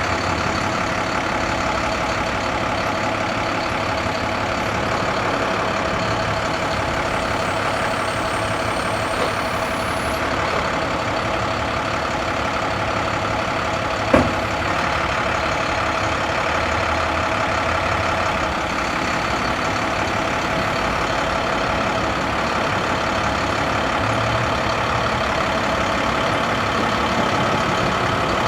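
International 7300's MaxxForce DT diesel engine running steadily, with one sharp click about halfway through.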